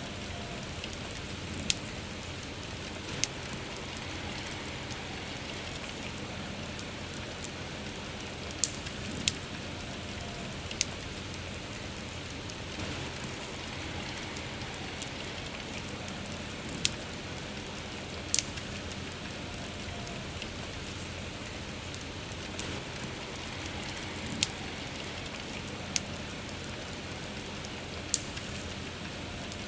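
Steady rain hiss over a crackling wood fire, with a dozen or so sharp pops and snaps at irregular intervals.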